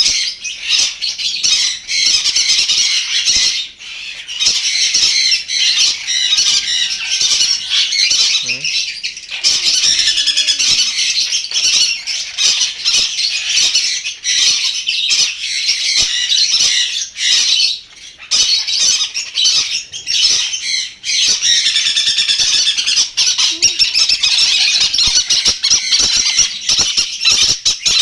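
Many caged small parrots (conures, lovebirds, cockatiels) squawking and chattering at once in a loud, continuous, overlapping din.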